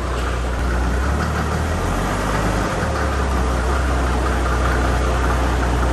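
An engine idling: a steady low rumble that dips briefly a little under three seconds in.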